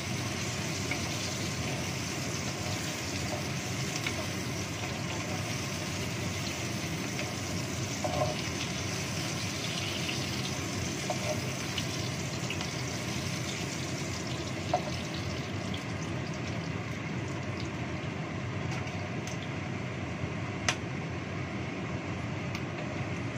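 Sliced chilies and green beans frying in hot oil in a wok: a steady sizzle, with a few sharp clicks of a wooden spatula against the pan, the two loudest in the second half.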